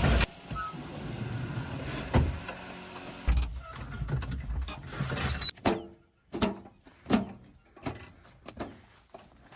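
Diesel engine of a JCB backhoe loader running, broken by abrupt cuts, with a brief whine about five seconds in. The sound then drops away into a string of irregular sharp knocks and clicks.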